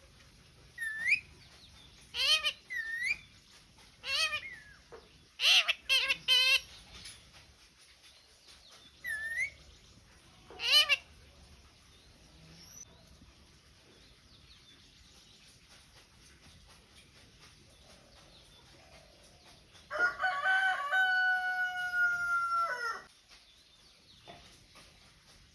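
A pet green parrot gives short, sharp squawks, about eight of them during the first eleven seconds, each one swooping up and down in pitch. Near the end a rooster crows once, a steady call lasting about three seconds.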